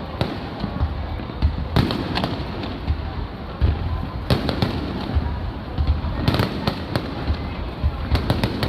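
Aerial fireworks shells bursting, a rapid run of sharp bangs and crackles in clusters about every two seconds, over deep booming.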